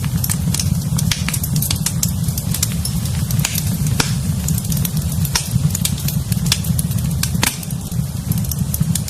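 Wood fire in a fireplace crackling, with frequent irregular sharp pops over a steady low rumble of the burning fire.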